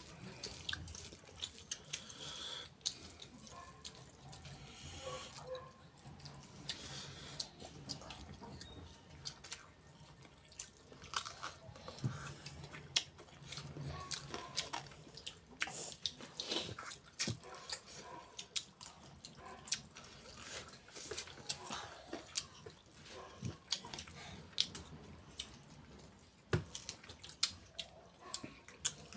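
Close-up eating sounds of a person eating chicken and rice with his hands: wet chewing and lip-smacking, with many short sharp clicks scattered throughout.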